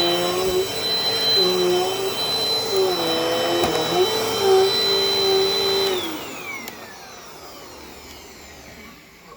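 Dirt Devil Dynamite Plus vacuum cleaner running loud with a steady high whine, its lower tone wavering. About six seconds in the motor winds down, the whine falling in pitch and fading.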